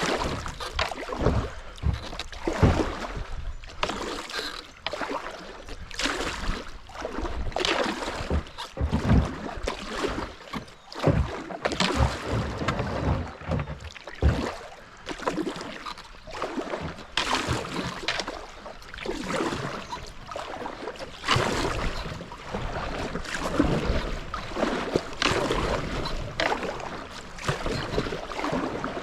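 Kayak paddling down a fast-flowing shallow creek: the paddle dips and splashes in uneven strokes over the rush of the current.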